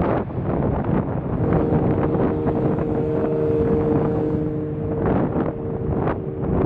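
Ferry's horn sounding a long steady blast of several tones lasting about four seconds, followed after a short break by a briefer blast. Wind buffets the microphone throughout.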